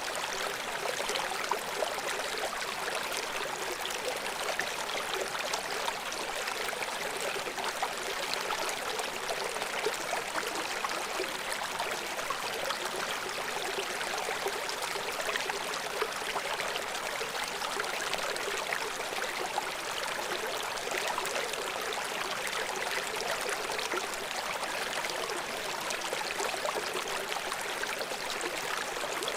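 River water flowing steadily: an even rushing hiss full of small splashes, with little deep rumble.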